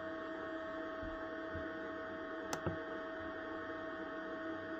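Steady electrical hum with an even high tone from the running generator-and-inverter power system carrying a household load. A single light click about two and a half seconds in.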